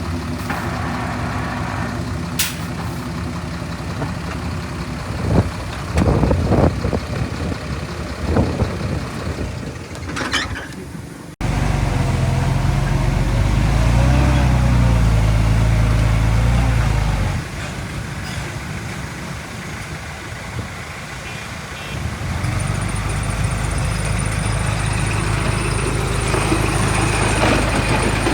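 Heavy diesel engines of earthmoving machinery running, with a short hiss shortly before an abrupt cut about eleven seconds in. After the cut an engine works louder with a wavering pitch for about six seconds, drops back to a steady run, then grows louder again in the last few seconds.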